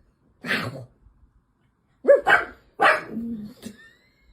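A dog barking: one bark about half a second in, then a quick run of barks near the end.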